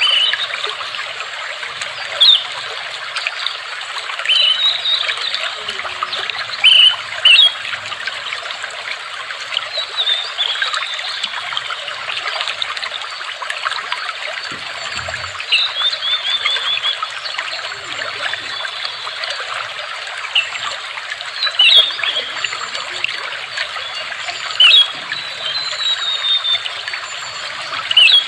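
Water trickling steadily, with birds calling now and then over it: short high chirps and a few quick trills.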